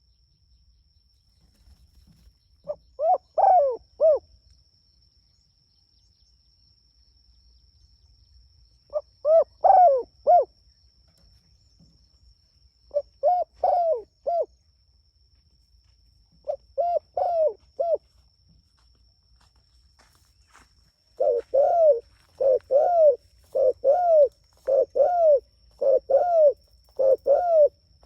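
Spotted dove (tekukur) cooing in short phrases of a few notes each. Four phrases come several seconds apart, then about two-thirds of the way through the calls speed up into a steady run of about eight phrases, each less than a second after the last.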